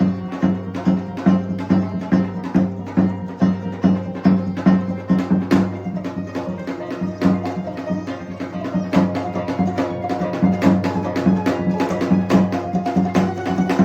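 Percussion ensemble playing a steady rhythm of strikes, about two a second, over a sustained low tone.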